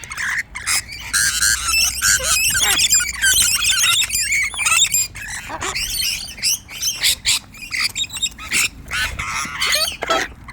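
Wild cockatoos calling loudly at close range: a dense run of short, overlapping squawks and chattering chirps.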